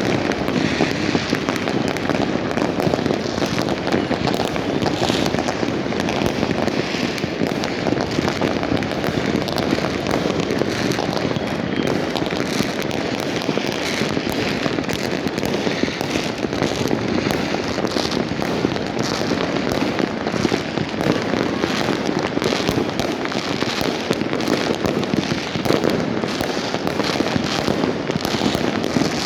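Many fireworks and firecrackers going off at once in a dense, continuous barrage of bangs and crackles, with no let-up.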